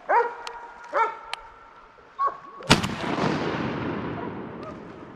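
A single shotgun shot about two and a half seconds in, its report rolling and fading for a couple of seconds after. Before it come two short pitched calls.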